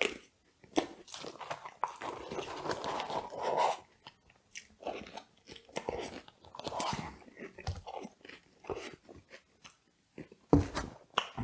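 Close-up chewing and biting of food, irregular crunching and mouth clicks, from fries dipped in a strawberry Frosty.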